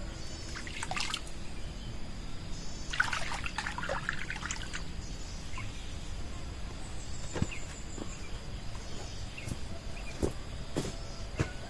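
Water trickling and dripping, with scattered small clicks in the second half.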